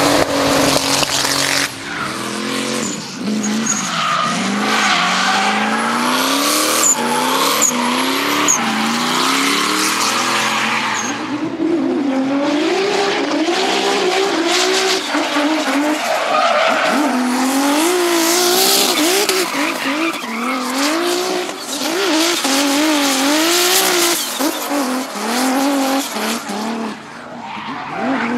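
Turbocharged BMW engines revving hard while drifting, the engine pitch swinging up and down over and over as the throttle is worked, over continuous tyre squeal and skidding.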